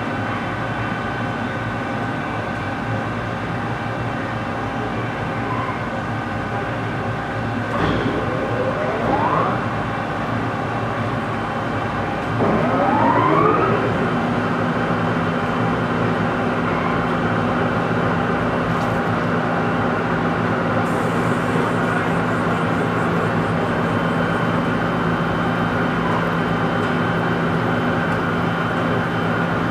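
Large metal lathe running with a steady machine hum. About 8 seconds in, and again about 12 seconds in, a whine rises briefly in pitch, then the hum settles on a new steady tone.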